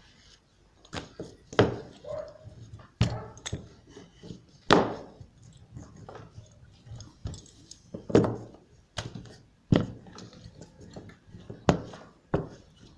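Dough being worked by hand on a board: about ten irregular knocks and thumps, the loudest near the start and about five seconds in, with soft handling noise between.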